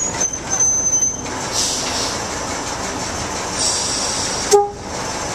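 A slow-moving train riding along the rails behind a class 03 diesel shunter, with a thin high wheel squeal in the first second and a single sharp clank about four and a half seconds in.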